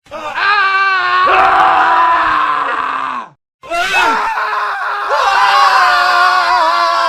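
Men screaming: two long screams edited back to back, the first dropping in pitch before it cuts off a little over three seconds in, then a brief silence and a second scream.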